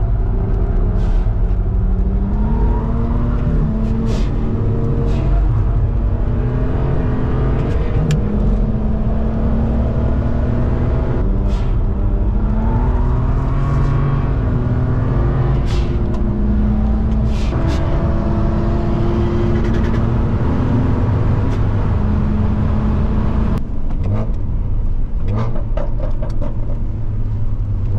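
BMW E92 335i's turbocharged 3.0-litre straight-six heard from inside the cabin at speed on track, the engine note climbing with revs and dropping back at each gear change, again and again, with short sharp clicks between.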